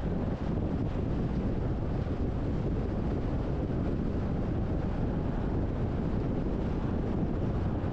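Steady wind and road noise from a car driving, a constant low rumble without engine tones or distinct events.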